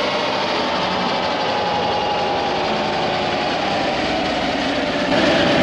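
An engine running steadily, its pitch slowly falling, growing a little louder near the end.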